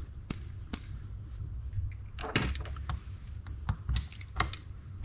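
Scattered clicks and light clatter of small metal reel parts being handled during a teardown, with a louder cluster about two seconds in and a few sharp clicks near the end.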